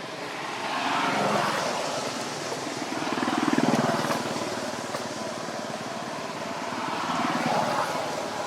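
Motor vehicle engines passing, the noise swelling and fading three times, loudest about three and a half seconds in.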